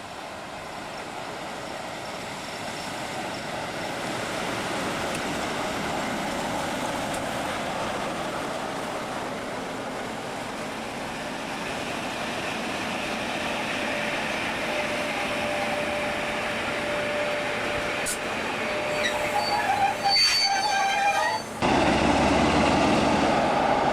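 A train running past, its noise slowly building, with a thin steady whine and then a few seconds of high squealing tones near the end. The sound then cuts abruptly to louder running noise.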